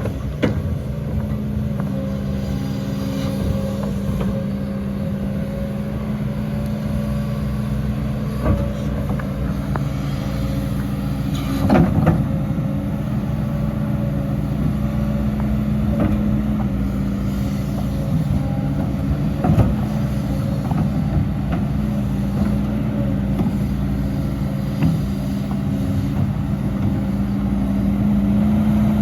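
Diesel engine of heavy earthmoving machinery running steadily, with a few sharp metallic knocks from time to time, the loudest about twelve seconds in.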